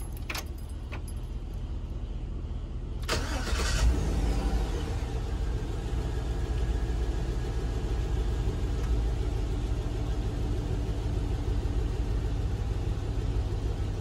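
A full-size SUV's engine is cranked briefly by the starter about three seconds in. It catches and settles into a steady idle.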